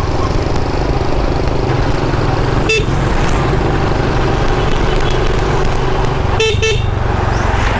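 Motorbike engine running steadily on the move, with a short horn toot about three seconds in and a quick double toot near the end.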